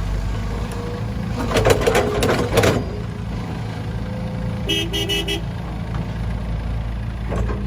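Heavy diesel machinery running steadily. About a second and a half in, a load of dirt and rocks clatters down from the excavator bucket into the dump truck's bed. Near the middle comes a quick run of about four short horn toots.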